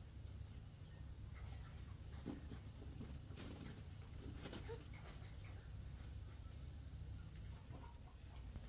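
Steady, high-pitched insect chirring in the background, with a few faint clicks and rustles.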